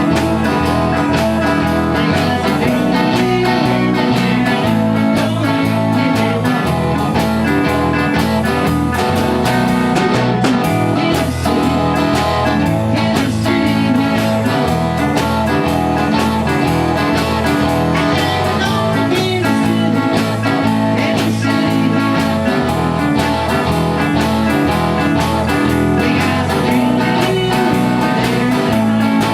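A band playing an instrumental blues-rock passage, with guitar leading over a repeating bass line and a steady beat.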